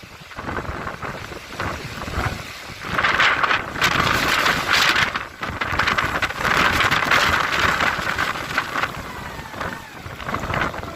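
Bura wind blowing in strong gusts and buffeting the microphone, with a long loud stretch of gusting in the middle before it eases near the end.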